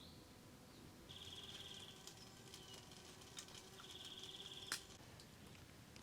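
Faint wild birdsong: two short, rapid trills about a second long each, with a single sharp click near the end.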